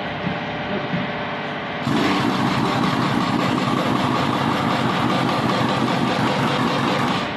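An engine-driven machine running loudly and steadily, cutting in suddenly about two seconds in and stopping just as suddenly near the end, over a quieter steady machine hum.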